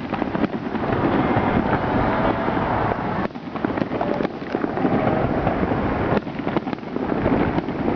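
Large aerial fireworks display: a continuous din of booms and crackling with many sharp cracks, easing briefly a few times.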